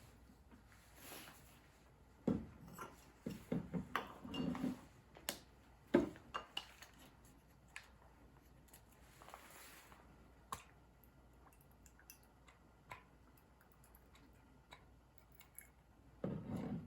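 Thin titanium panels of a hinged mini fire pit clinking and knocking as they are handled, with a busy run of taps early on and then occasional single clicks.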